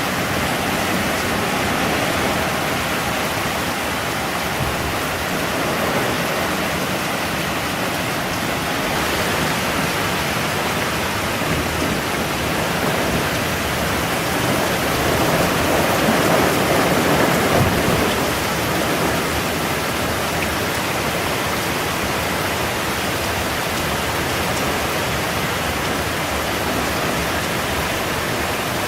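Heavy typhoon rain pouring down steadily, a little louder for a few seconds in the middle.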